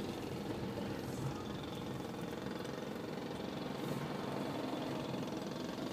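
Car engine running, with a steady low hum heard from inside the cabin.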